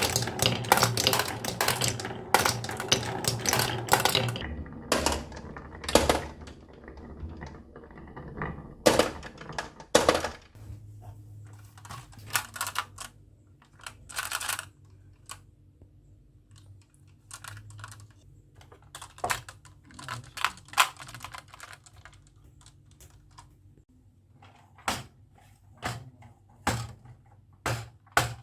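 Marbles clicking and clattering down a HABA wooden marble-run track. The clicks come thick and fast for the first few seconds, then thin out to scattered single clicks.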